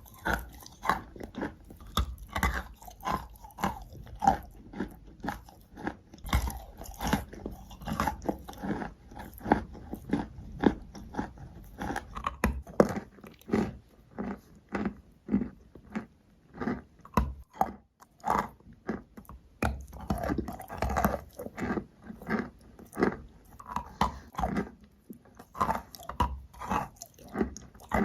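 Wet, gritty sand-like material being crushed in close-up, a quick irregular run of crunches, two or three a second.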